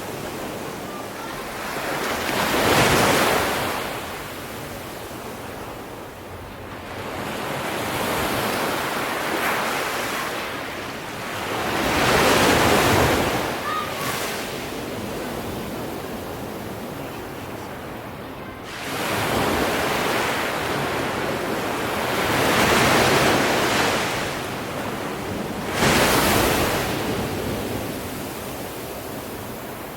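Sea waves breaking and washing in, the surf swelling into a rush and fading away about five times, with an abrupt crash near the end.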